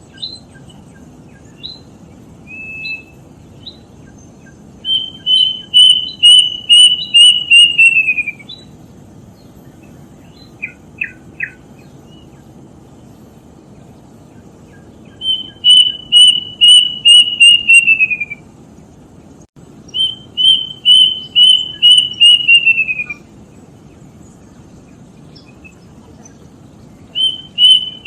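Kedasih, a small Cacomantis cuckoo, singing: repeated phrases of about ten quick, high whistled notes, each run sliding down in pitch at the end. Three full phrases come with pauses between them and a fourth begins at the very end, with a few short single notes in the gaps.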